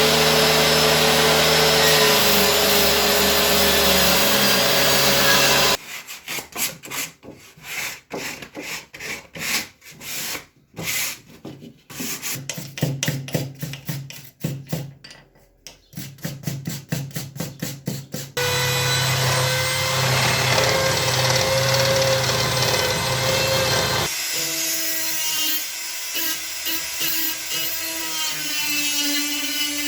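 Woodworking tools on wood. A power tool runs steadily, then about six seconds in it gives way to rhythmic hand strokes scraping the wood at about two a second. Near two-thirds of the way through, a power tool runs steadily again.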